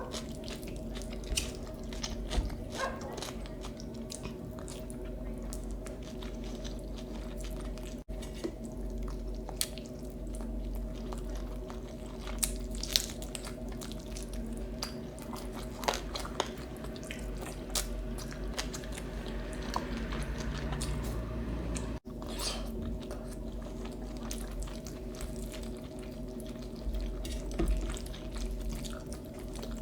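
A person eating close to the microphone: chewing, with scattered short clicks and a steady low hum underneath.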